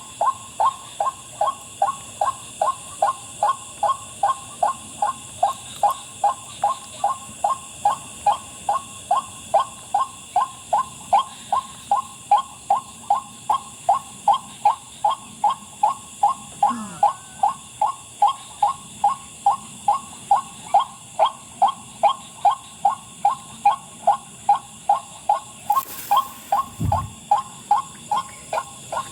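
White-breasted waterhen (wak wak) call: a short 'wak' note repeated evenly about twice a second without a break, over a steady high trilling of night insects. A brief knock or rustle sounds near the end.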